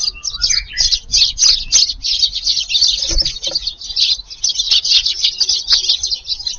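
A flock of Eurasian tree sparrows chirping together, many short high chirps overlapping without a break: the chatter of a crowd of sparrows feeding.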